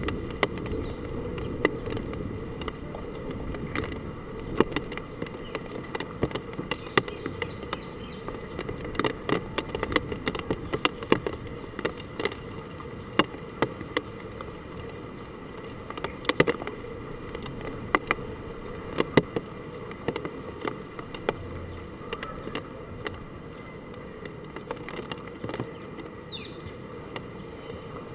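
Hard typhoon rain and wind: a steady low rush with irregular sharp taps of drops striking a hard surface.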